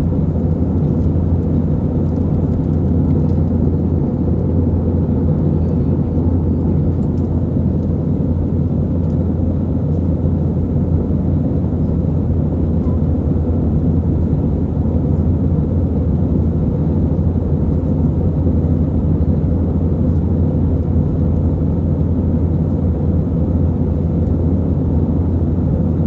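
Steady low rumble of jet engines and rushing air inside the cabin of an Airbus A320-200 climbing after takeoff.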